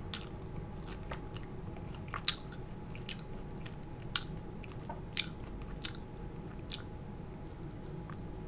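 A person chewing a mouthful of crispy breaded fried chicken in barbecue sauce, with sharp crunches about once a second.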